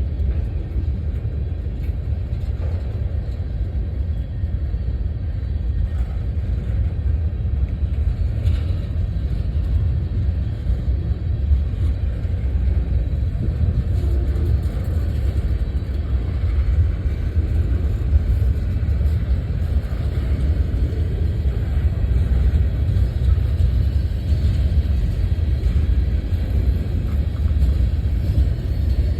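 A train rumbling past: a steady, loud low rumble that holds at an even level throughout.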